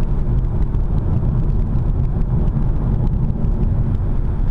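Steady rumble of road and engine noise inside a car cruising along a country road, with no changes or sudden sounds.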